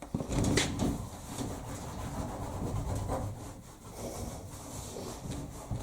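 A damp cloth rubbing back and forth over a tumble dryer's casing in repeated scrubbing strokes, the strongest just at the start.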